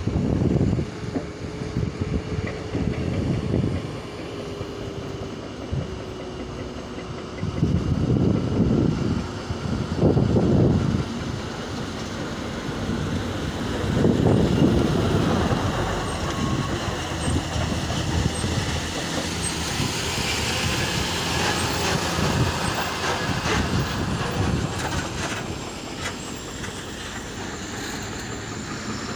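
Heavy vehicles and machinery running, a dense engine rumble that swells louder several times.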